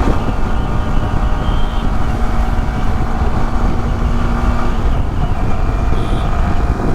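Yamaha R15 V3's 155 cc single-cylinder engine running at a steady pace while riding, mixed with wind rushing over the helmet microphone.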